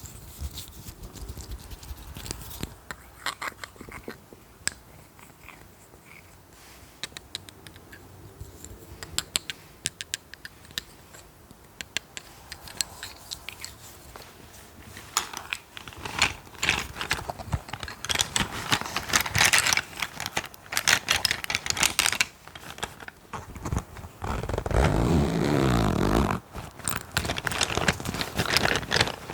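Close-miked ASMR tapping and scratching on objects: scattered light taps at first, growing into dense, louder scratching and tapping about halfway through, with a heavier, deeper rustle near the end.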